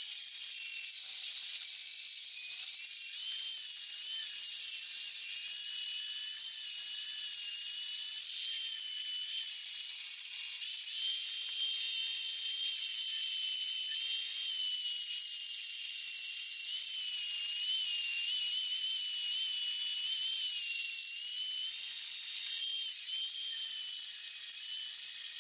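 High-pitched power tool grinding old residue off an exhaust part, its whine wavering slightly in pitch as it is pressed against the metal.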